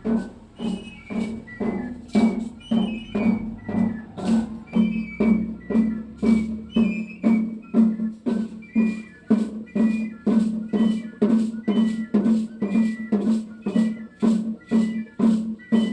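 Danza sonajera music: a drum struck in an even beat of about two strokes a second, with a high flute-like melody playing over it.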